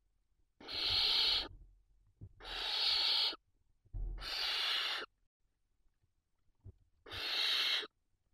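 Barn owl chicks giving four drawn-out hissing calls, each about a second long: the snoring begging call of nestlings in the nest box.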